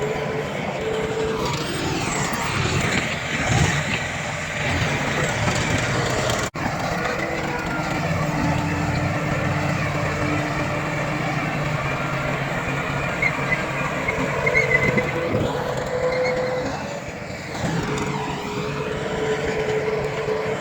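Heavy diesel earthmoving machinery running steadily: bulldozer and dump truck engines at work. There is a brief dropout in the sound about six seconds in.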